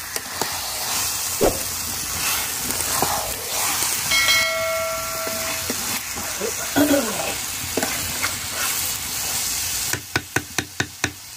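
Chicken in masala sizzling as it fries in a black iron kadai, with a metal spatula stirring and scraping it around the pan. A short ringing tone sounds about four seconds in, and near the end comes a quick run of sharp clicks, about six a second.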